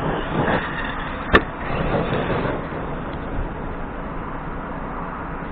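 Arrma Kraton RC truck's brushless motor revving up and down, with one sharp knock about a second and a half in, then a steady rushing noise.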